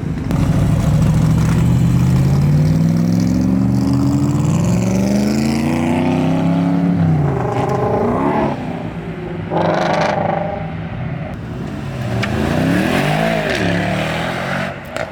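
Shelby Mustang V8 accelerating hard, its engine pitch climbing steadily for several seconds before dropping away about seven seconds in. Near the end, another engine rises and falls in pitch as it revs past.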